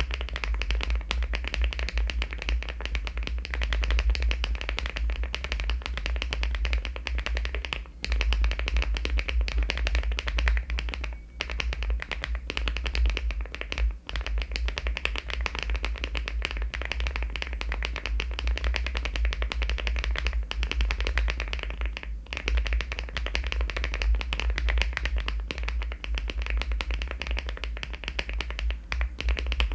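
Fast, continuous typing on a LEOBOG Hi75 aluminium mechanical keyboard fitted with HMX switches and cherry-profile keycaps: a dense stream of keystroke clacks with a few brief pauses.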